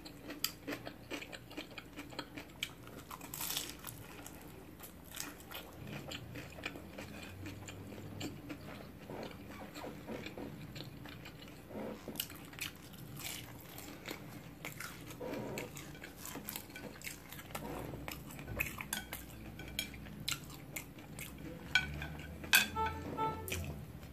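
Close-up chewing of a crisp fried egg roll, with small crunches and wet mouth clicks scattered throughout. A cluster of louder clicks and rustles comes near the end.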